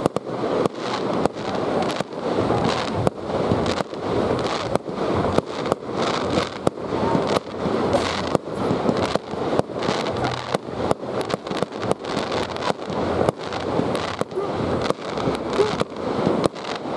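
Fireworks going off in a rapid, continuous barrage: sharp bangs several times a second over a steady crackling rumble.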